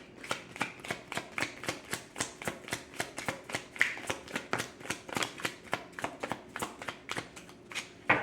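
Tarot deck being shuffled by hand: a quick, even run of card clicks, about five a second.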